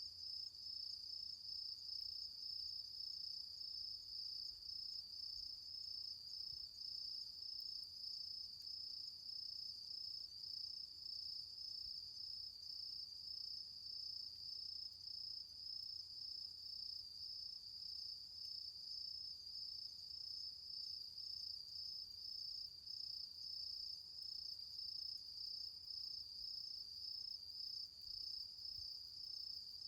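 Autumn insects calling in a steady, high-pitched, evenly pulsing trill that goes on without a break.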